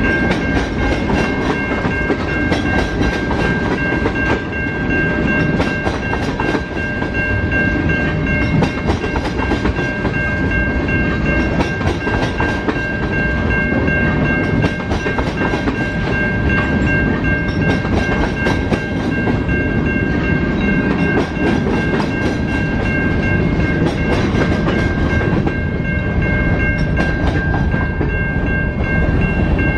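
Train cars rolling steadily past at close range, their wheels clicking over the rail joints, with a continuous high-pitched ringing tone held over the rumble.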